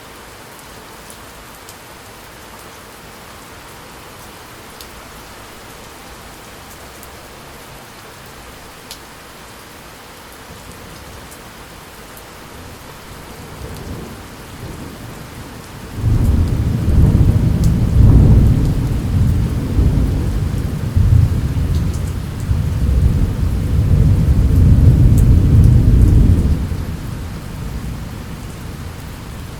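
Steady rain falling, with a long roll of thunder that builds from about halfway through, breaks loud and deep, rumbles for about ten seconds and fades near the end.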